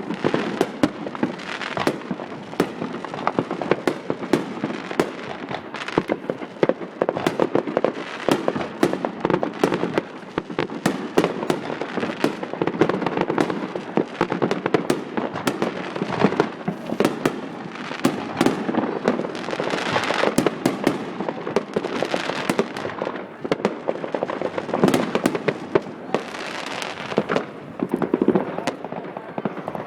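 Fireworks going off in a dense, continuous barrage: many sharp bangs and crackling reports per second, overlapping with no pause.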